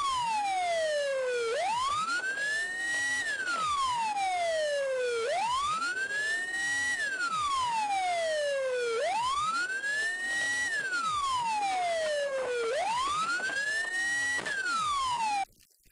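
Emergency vehicle siren in a slow wail, its pitch climbing and falling about every four seconds; it cuts off suddenly near the end.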